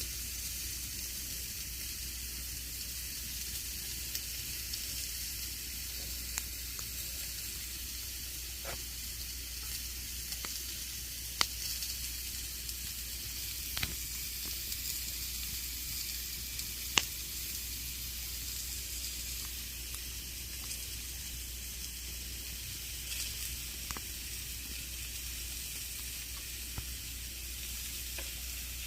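Campfire burning: a steady hiss broken by scattered sharp crackles and pops, with a few louder pops around the middle.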